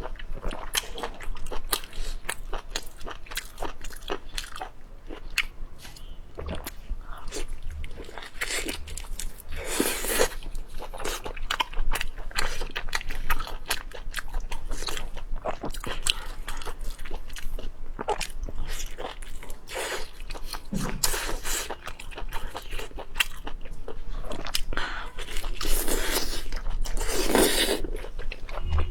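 Close-up chewing and crunching of food: a dense, irregular run of crisp clicks and bites, with a few louder crunches.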